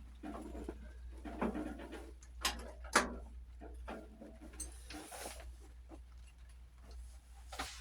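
Scattered clicks and knocks of hand tools and metal parts being handled while unbolting the tractor engine, the sharpest knock about three seconds in, over a steady low hum.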